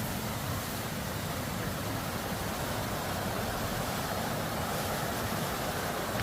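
Mountain stream water flowing in a steady, even rush.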